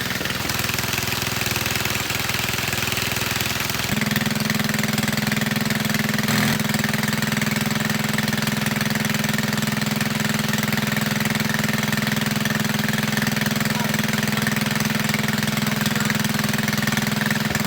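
Small petrol engine of a portable water pump running steadily, its carburetor freshly cleaned after long disuse. About four seconds in it gets louder and fuller and then holds a steady speed.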